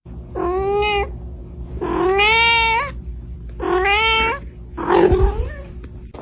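A domestic cat meowing four times in long, drawn-out calls, each rising in pitch at the end; the fourth is rougher.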